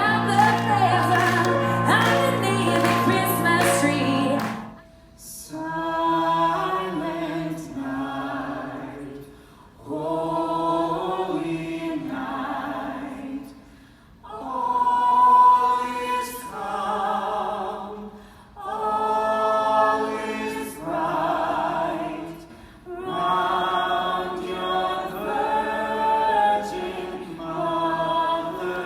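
Accompanied music ends about four seconds in, then a choir sings unaccompanied in phrases with short pauses between them.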